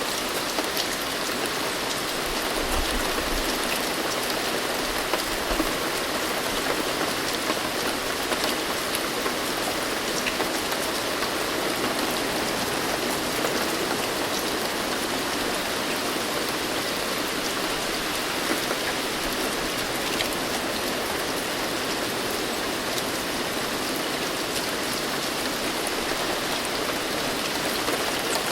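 Steady rain, with fine drop patter on a surface in a continuous even hiss.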